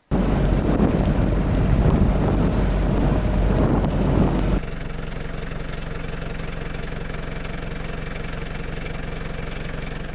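Vehicle engine running with a steady low hum, loud for the first four and a half seconds, then dropping suddenly to a quieter, even drone.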